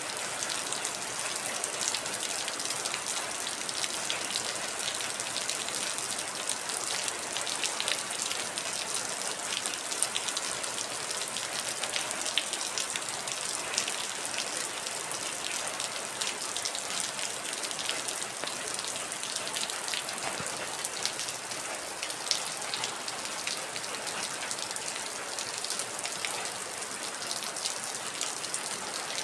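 Heavy rain falling steadily: a dense, even hiss with many sharp drop ticks scattered through it.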